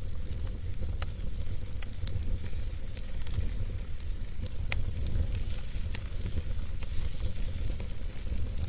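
Wood fire burning in a fireplace: a steady low rumble and hiss with sharp pops and crackles every second or so.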